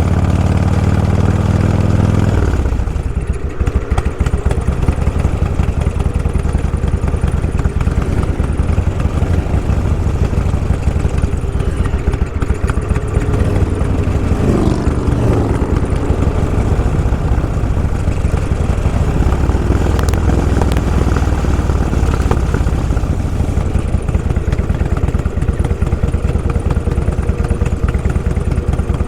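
Motorcycle engine running steadily on the move, louder for the first couple of seconds, with the engine pitch dipping and climbing again about halfway through.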